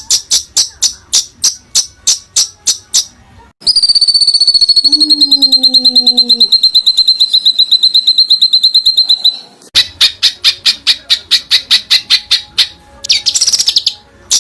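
Songbird song used as a training recording: sharp high chips repeated about five times a second, then a long fast trill held on one high note for about five seconds, then more rapid chips and a short dense burst of notes near the end.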